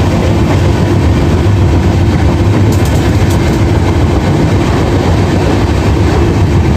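Moving passenger train running steadily: a loud, continuous rumble of the wheels on the track.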